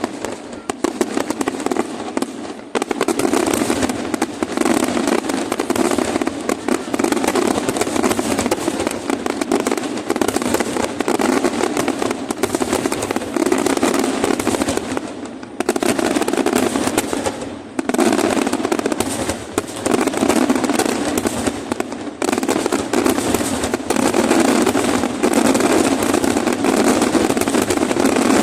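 Fireworks display: a dense, continuous barrage of bangs and crackling, with a few brief lulls.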